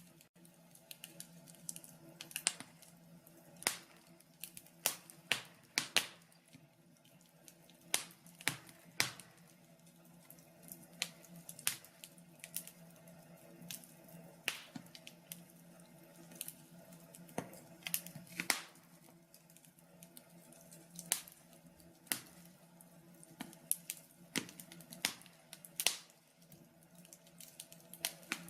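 Wood logs burning in a log burner, crackling and popping in irregular sharp snaps over a faint steady hum.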